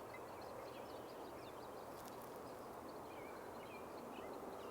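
Songbirds chirping and calling, a scatter of short high calls throughout, over a steady background noise.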